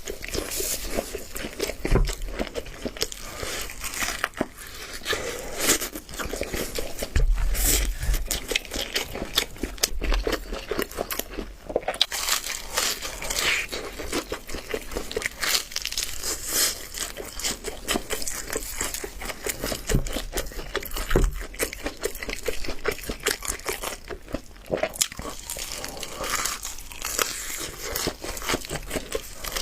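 Crisp double-fried, flour-battered chicken drumsticks being bitten, torn and chewed close to the microphone: a dense, continuous crackle of crunchy coating, with a few low thumps.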